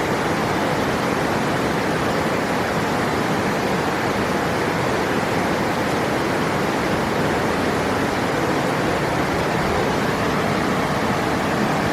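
River water rushing, a steady, unbroken wash of noise.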